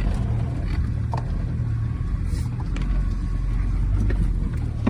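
GAZ Sobol 4x4's engine running with a steady low rumble while driving, with a few light knocks.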